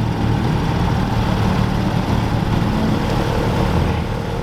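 A car engine running at low revs, loud and steady with slight swells, fading in over the first second and out near the end as the car drives slowly past.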